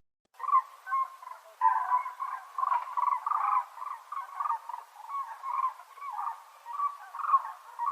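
Cranes calling: a dense run of short, pitched calls one after another, several overlapping.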